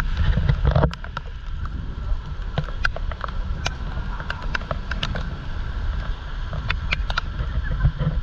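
Typhoon wind and rain on a small action-camera microphone: a steady low rumble of wind buffeting, heaviest in the first second, with irregular sharp taps scattered through it.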